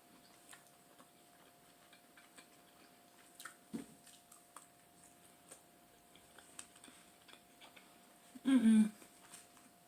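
Faint chewing and small clicks of cutlery on a plate while eating, with a short knock a little before the middle. Near the end comes a brief pitched voice-like sound.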